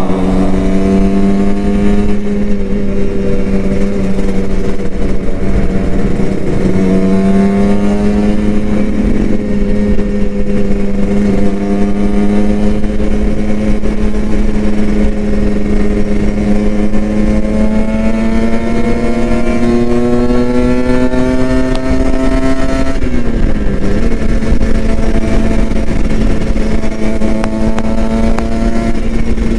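Kawasaki Ninja RR 150's two-stroke single-cylinder engine running at high, fairly steady revs while being ridden. Its pitch dips and climbs again around seven seconds in, rises slowly, then drops suddenly about 23 seconds in and holds.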